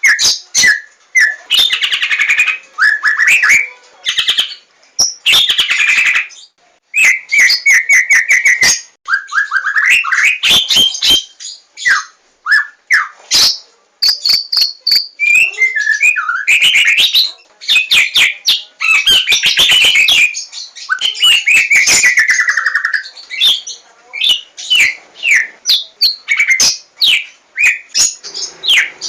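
White-rumped shama (Javan 'larwo' form) singing a long, varied song of rapid note runs, trills and rising and falling whistles, with only short pauses between phrases.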